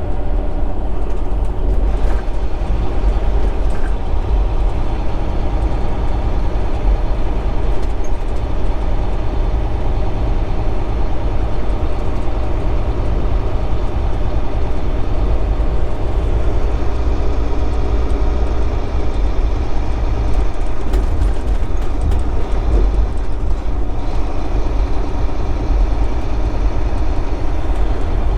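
Semi truck driving at road speed, heard from inside the cab: a steady low engine drone and road rumble.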